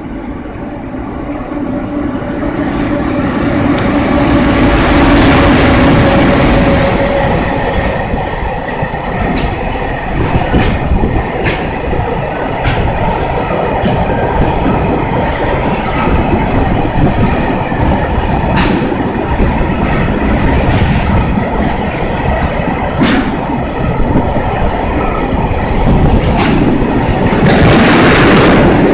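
Freight train hauled by an EF210 electric locomotive running through at speed. It rumbles louder with a steady hum as the locomotive approaches and passes in the first several seconds. A long string of tank wagons then rolls by with wheels clicking over the rail joints about once a second, and a brief loud burst of high-pitched noise comes near the end.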